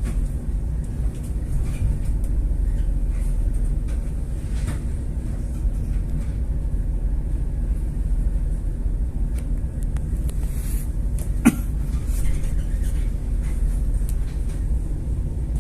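Ship's engine running with a steady low rumble, with one short sharp knock about eleven and a half seconds in.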